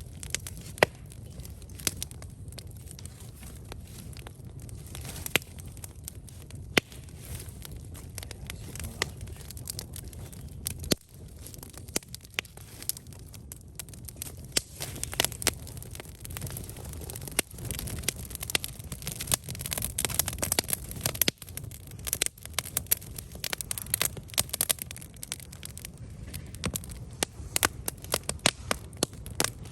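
Wood campfire crackling and popping, with irregular sharp snaps over a steady low hiss of the flames, the pops coming thicker in the second half.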